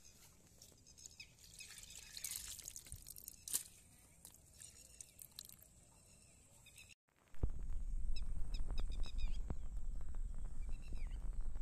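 Small birds chirping now and then, with faint water dripping into a muddy pool. About seven seconds in the sound cuts out briefly, then a low steady rumble comes in under the chirping.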